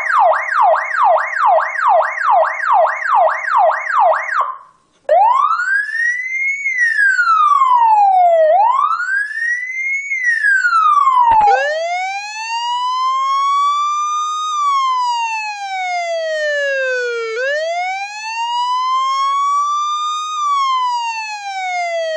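Portuguese police car siren cycling through its tones: a fast yelp of about three sweeps a second, a brief break, then a wail rising and falling every few seconds. About halfway through it changes to a slower, lower wail.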